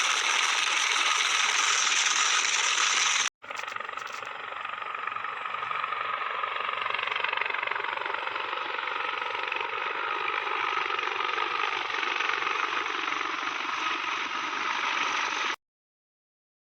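Helicopter turbine and rotor noise, a loud steady mechanical din. About three seconds in it cuts abruptly to a second, duller recording of the same kind of noise, which drops out to silence about a second before the end.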